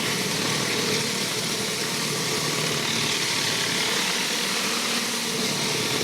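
An engine running steadily, with a constant hiss over it.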